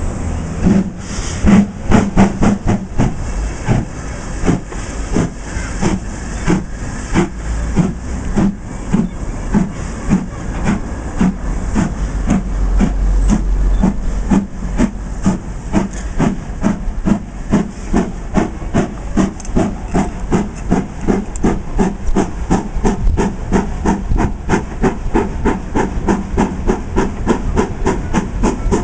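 A train in motion, with an even rhythmic clatter that quickens gradually from about two beats a second to about three.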